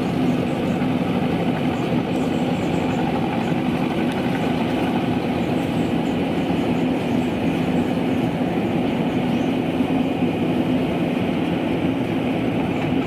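Rice combine harvester running steadily in the field: its diesel engine and threshing machinery give a continuous mechanical drone with a steady hum.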